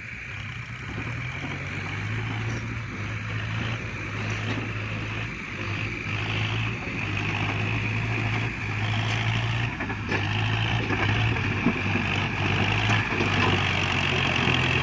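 Kubota tractor's diesel engine running steadily under load while ploughing soil, its drone pulsing slightly and growing gradually louder.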